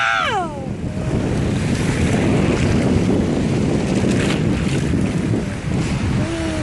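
Waves breaking and washing on a lakeshore, under heavy wind buffeting the microphone.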